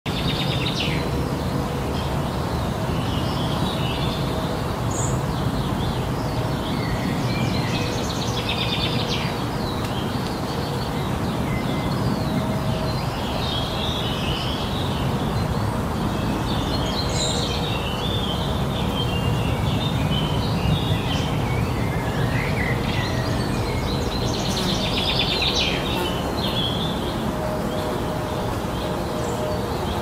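Several songbirds singing and chirping with short trills and calls, over a steady low rumble.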